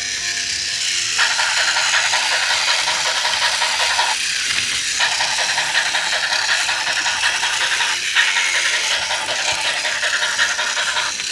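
Toy train engine running along its track: a steady rattling hiss, briefly dipping twice.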